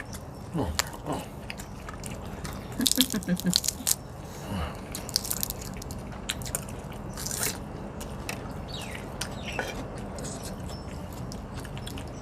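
Close-up eating sounds: chewing and crunching, with scattered short sharp clicks, from a mouthful of Thai spicy seafood salad with crunchy raw vegetables such as bitter gourd.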